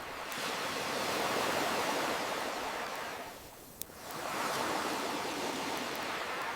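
Ocean waves washing in, swelling and ebbing twice, with a single sharp crackle from a campfire about four seconds in, between the waves.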